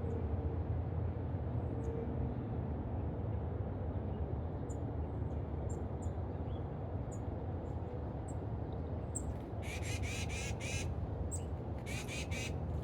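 Birds at a feeder calling: short high chirps every second or so, then two harsh, raspy calls near the end, over a steady low rumble.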